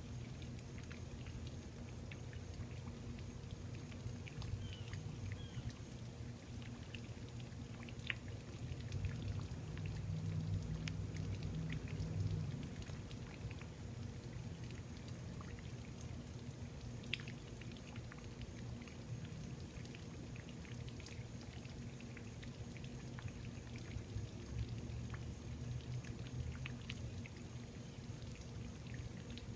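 A 2005 Jeep Grand Cherokee's 4.7-litre V8 idling through a Flowmaster Super 44 muffler and side exhaust: a low, steady burble that swells a little about nine seconds in and settles again a few seconds later.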